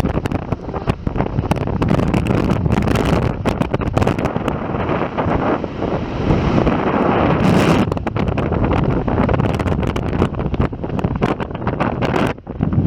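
Gale-force wind buffeting the microphone with a loud, continuous rumble and crackle, gusts of 20–25 m/s in a mountain snowstorm. It dips sharply for an instant near the end.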